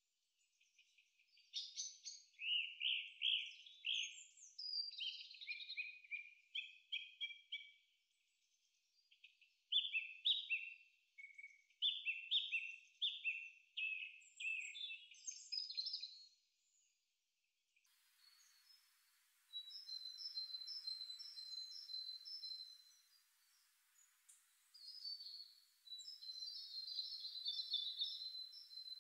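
Small birds singing: quick phrases of high chirps and trills with short pauses. About two-thirds through, the song changes to thinner, higher repeated notes over a faint hiss.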